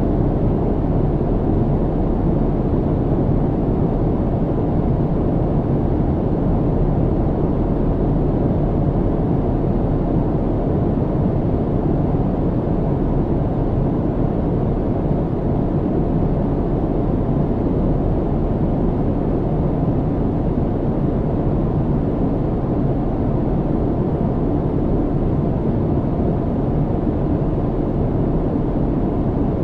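Steady low rumble of an airliner cabin in cruise flight, engine and airflow noise heard from inside the cabin, with no changes.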